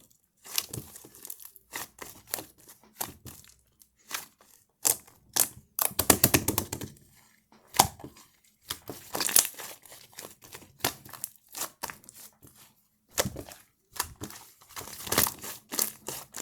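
Slime topped with cloud clay being squished, pressed and pulled by hand: irregular crackly snaps and squelches, several a second, with a denser run of crackling about six seconds in and again near the end.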